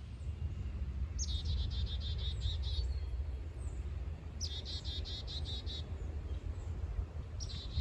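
A songbird singing a short, rapid phrase of repeated high notes, about a second and a half long, three times a few seconds apart; the last phrase starts near the end. Wind rumbles on the microphone underneath.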